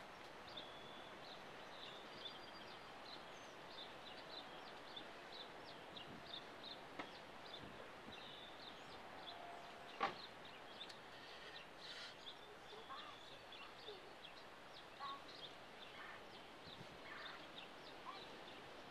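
Faint outdoor background with small birds chirping in short high notes over and over, and one sharp click about halfway through.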